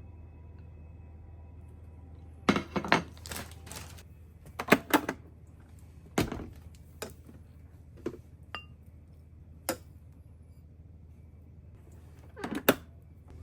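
Household objects being handled and set down: scattered knocks and thunks with an occasional short clink, in small clusters, over a steady low hum.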